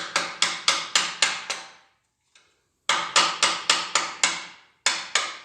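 Hammer blows on a screwdriver, driving it in to split a freshly unbolted part off a Kia/Hyundai G4NA engine. The sharp, ringing metal strikes come about four a second, in a run at the start, a second run after a short pause, and two more near the end.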